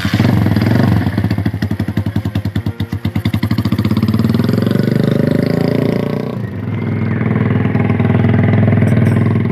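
Motorcycle running through an exhaust muffler made from a mini LPG stove gas canister, coming in loud at once with a fast pulsing exhaust note. It eases briefly about six seconds in, then holds steady.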